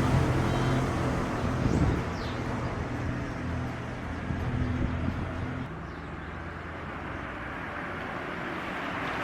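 Motor vehicle driving: a steady low engine hum over even road noise, the hum easing a little about six seconds in.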